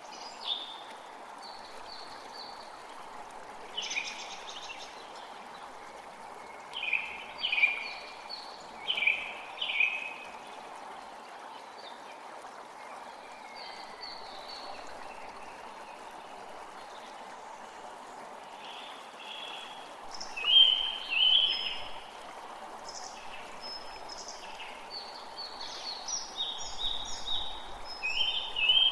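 Steady rushing of a forest creek, with songbirds singing over it in short bursts of calls that come and go, the loudest about a third of the way in and again about two-thirds in.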